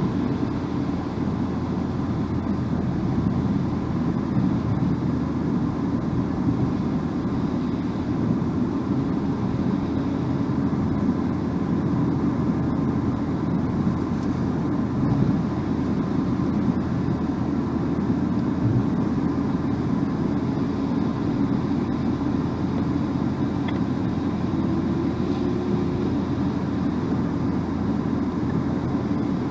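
Steady road and engine noise of a car driving along, heard from inside the cabin: an even, low rumble with no changes.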